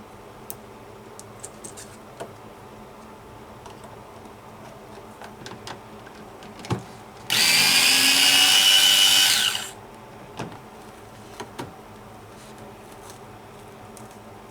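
Electric screwdriver running in one burst of about two seconds about halfway through, driving a screw during reassembly of the washing machine. Light clicks and knocks of handling parts before and after.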